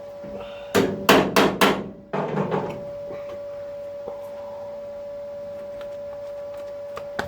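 A hammer striking sheet-steel car bodywork four times in quick succession about a second in, each blow ringing briefly, followed by a short rattle of metal. A steady hum runs underneath.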